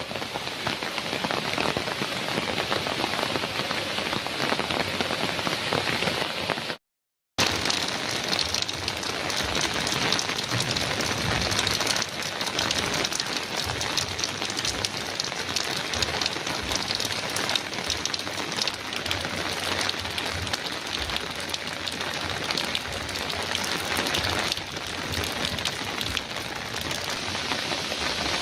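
Heavy rain drumming steadily on a metal roof: a dense hiss of countless drop impacts. The sound cuts out completely for about half a second around seven seconds in, then resumes unchanged.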